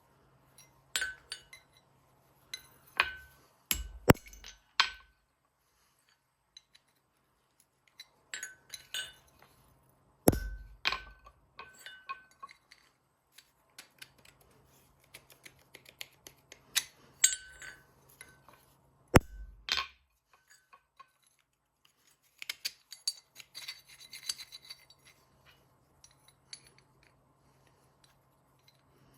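Steel parts clinking and being struck against each other, metal on metal in irregular groups with a short ring after each hit. The loudest sharp blows come about 4, 10 and 19 seconds in, and a run of lighter, finer clinks follows later.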